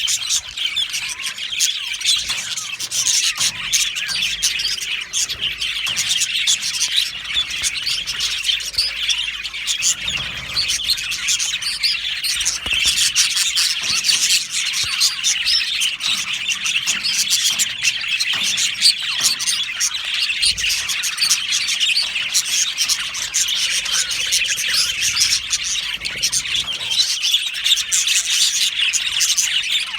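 A flock of budgerigars chirping and chattering without a break, many calls overlapping.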